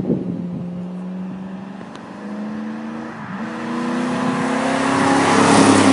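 A 1999 Ford Crown Victoria Police Interceptor's 4.6-litre V8 exhaust accelerates toward the listener. Its pitch climbs, breaking twice as the automatic gearbox shifts up, and it grows louder to a peak near the end as the car closes in. The exhaust note is described as "so dirty".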